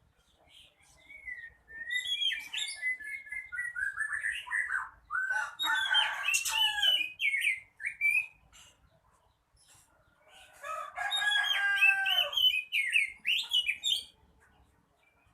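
Oriental magpie-robin (kacer) in full song: two bouts of quickly varied whistled and harsh phrases. The first starts about a second in and lasts about seven seconds; the second starts about ten seconds in and lasts about four.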